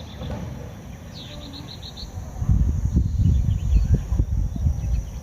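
A small bird chirping a quick run of high notes over a steady, high-pitched insect drone. About halfway through, a louder, uneven low rumbling noise sets in and becomes the loudest sound.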